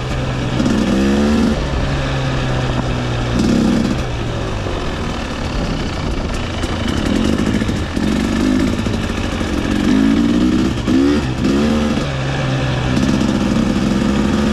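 Dirt bike engine idling, with about five short throttle revs that rise in pitch and drop back.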